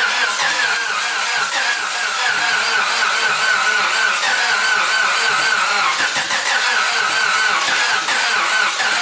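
Starter motor cranking the Honda wagon's freshly rebuilt engine without it catching: a continuous whine that wavers rapidly up and down as it turns. The owner blames stale gas for the hard start.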